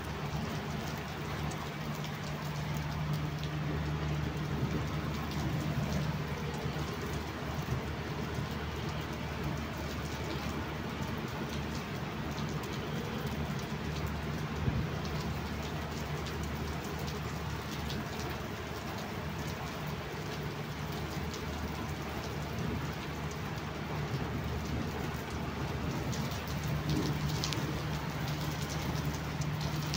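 Steady heavy rain falling on a flat concrete rooftop covered in standing water, with many close individual drop hits over the rain's even hiss. A steady low hum runs underneath.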